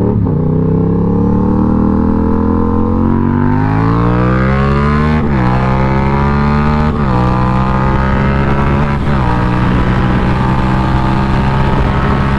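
2020 Yamaha MT-07's parallel-twin engine through a baffle-less GRMOTO full exhaust system, accelerating hard through the gears. The revs climb and fall back sharply at upshifts about five, seven and nine seconds in, then run on more steadily.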